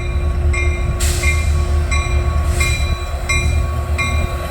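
Union Pacific diesel locomotives running past with a loud, steady low rumble and a steady hum as the train comes up to the diamond, with occasional short brighter rail noises.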